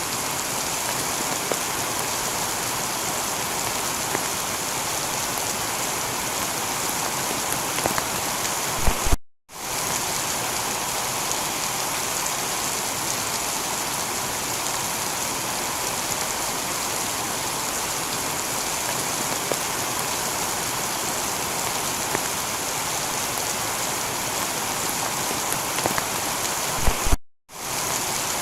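Steady heavy rain falling on a tiled roof, a dense even hiss. Twice, about a third of the way in and again near the end, a short low knock is followed by the sound cutting out for a moment before the rain resumes.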